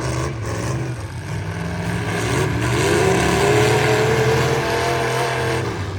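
Several full-size truck engines running and revving in a demolition derby. One climbs in pitch a little before halfway and holds high, while others rise and fall underneath.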